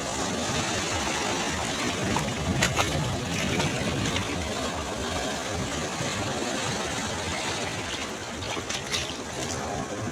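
Sea waves washing onto a beach: a steady, rumbling surf noise that swells and eases, with a few brief crackles of fizzing foam.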